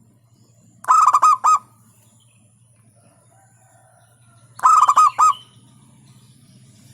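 Zebra dove (perkutut) cooing: two short phrases of quick, clipped notes, one about a second in and another near five seconds in, over a faint low hum.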